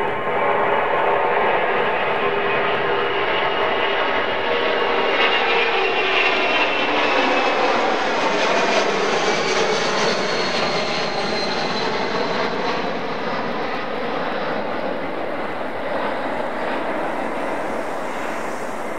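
Boeing C-17 Globemaster III's four turbofan engines at high power during takeoff, a loud steady jet noise with a high whine that slides slowly down in pitch as the aircraft passes and draws away.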